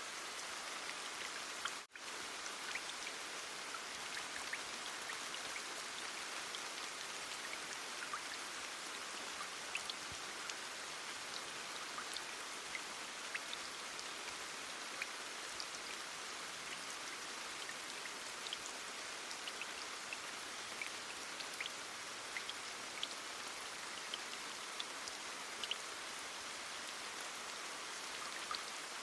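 Steady heavy rain: an even hiss with scattered sharp drop ticks, cutting out for an instant about two seconds in.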